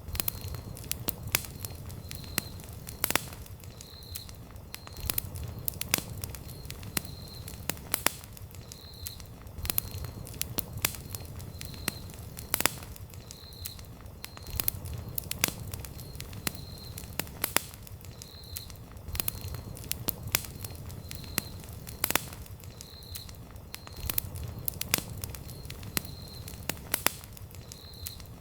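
Wood campfire crackling, with irregular sharp pops and snaps over the low, steady rumble of the burning flames.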